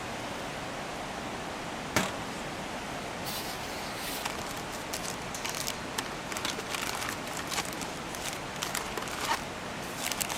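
Steady rush of a mountain stream, with a sharp click about two seconds in and scattered light clicks and taps from about three seconds on.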